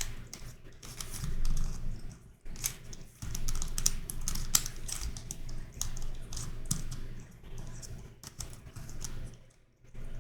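YuXin Corner Helicopter 2x2 twisty puzzle being turned and flipped by hand: a fast, irregular run of plastic clicks and clacks from its pieces turning, with short pauses.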